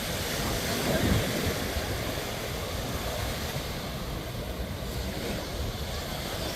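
Sea surf washing onto a sandy beach, a steady rush with a louder surge about a second in.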